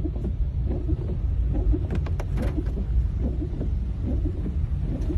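A steady low rumble, with a few faint clicks about two seconds in.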